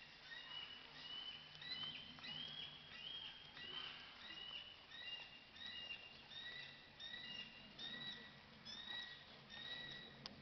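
Faint bird calls: a steady series of short high whistled notes, about two a second, stepping between a few set pitches.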